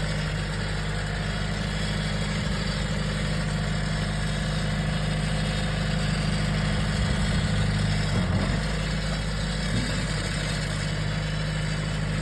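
John Deere tractor engine idling steadily at a low, even pitch, with brief small wavers in the note about two-thirds of the way through.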